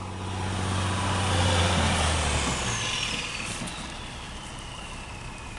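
Freightliner Columbia truck's diesel engine revving under load, then dropping off about two and a half seconds in, with a thin whine that falls steadily in pitch as it winds down.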